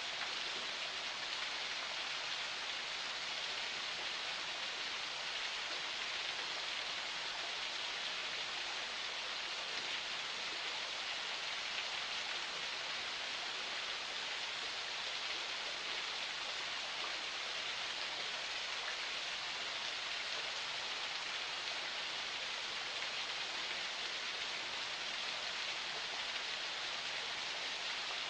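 Forest spring water flowing in a steady, even rush, bright and hiss-like, without a break or change.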